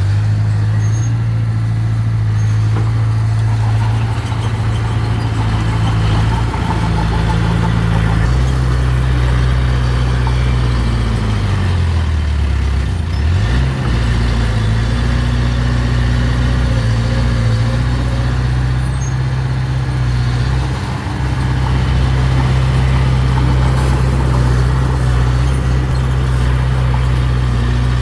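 Mini bulldozer's diesel engine running steadily and loudly. About halfway through, the engine note sags in pitch and then comes back up.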